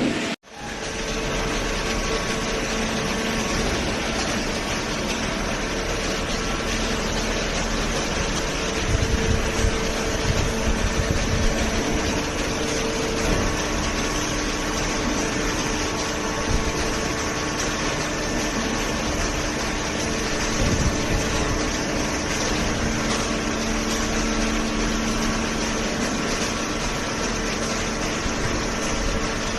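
Hydraulic baler's motor and pump running with a steady mechanical hum and a few steady tones, with some louder low surges around nine to twelve seconds in.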